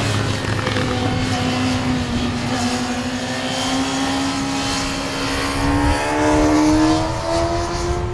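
Electric bike's hub motor whining under power. Its pitch dips slightly, then climbs steadily and grows louder toward the end as the bike speeds up.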